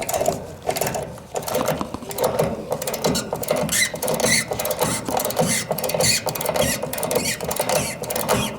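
Rapid, uneven metallic clicking and rattling from a ratchet service wrench turning the heat pump's suction-side service valve closed, to pump the refrigerant down into the condenser.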